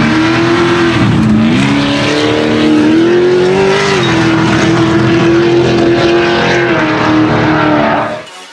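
Ultra4 off-road race car's engine running hard at high revs. The pitch dips briefly, climbs again and holds, then the sound cuts off abruptly near the end.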